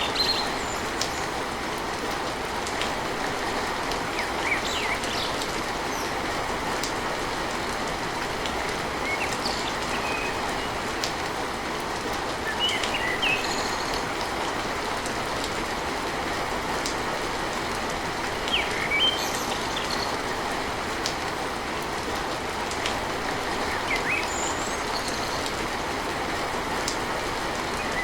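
Steady heavy rain drumming on a tin roof, with short high chirps now and then.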